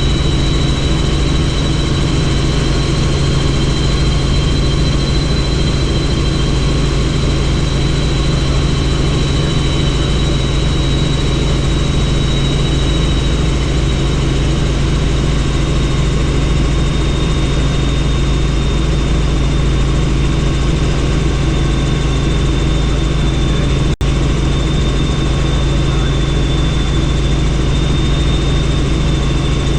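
Helicopter in flight, heard from on board: a steady rotor and engine drone with a high, even whine over it, broken once by a momentary dropout.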